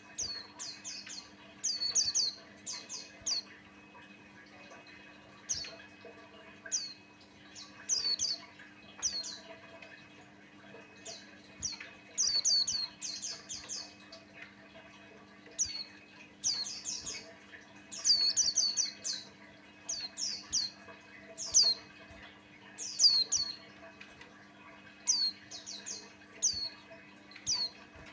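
White-eye singing: short bursts of high, rapid, downward-sweeping twitters and chirps, repeated every second or so with brief gaps between phrases.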